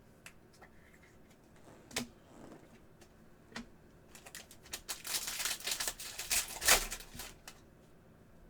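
Trading cards being handled and flipped through: a few scattered sharp clicks and taps, then a dense flurry of crisp card slides, flicks and rustling from about four seconds in, loudest near seven seconds, stopping before the end.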